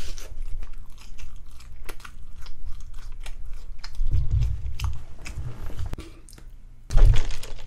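A person chewing fast-food fries and burger close to a microphone: soft crunches and many wet mouth clicks, with a few low thuds about four seconds in and a short loud one near the end.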